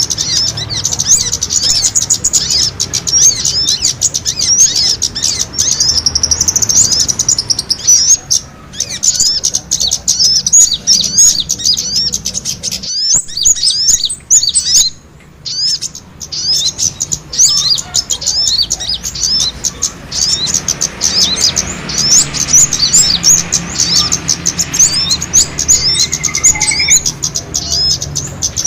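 Small songbirds chattering in rapid, dense, high-pitched chirps, a bird-trapping lure recording of small birds' fighting calls. The chirping breaks off briefly about halfway through, then carries on.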